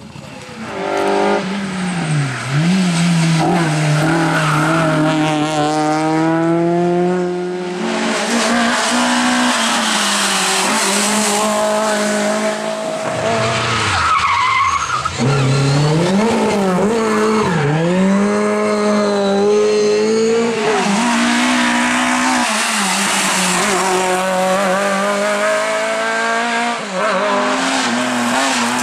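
Rally cars being driven hard on a stage. The engines rev high and drop back repeatedly through gear changes and braking, with tyres squealing and skidding.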